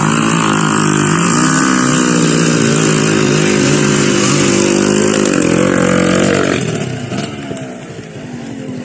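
Trail motorcycle engine held at high revs for about six seconds, wavering slightly, then easing off to a lower, quieter run.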